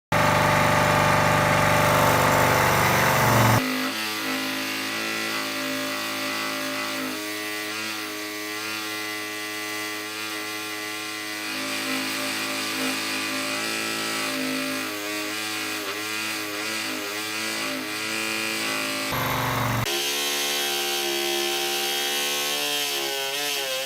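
A small electric power tool running steadily, its motor tone wavering under load near the end, in several clips cut together with abrupt changes about four seconds in and near the end.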